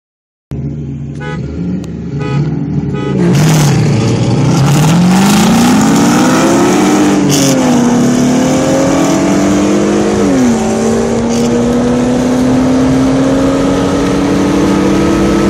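Car engines revving, then launching from a stop and accelerating hard. One engine note climbs and drops back at gear shifts about seven and ten seconds in, then keeps rising.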